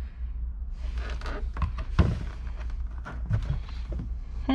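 A few short knocks and clunks from loose parts being handled as a car seat is taken apart, the loudest about two seconds in, over a low steady hum.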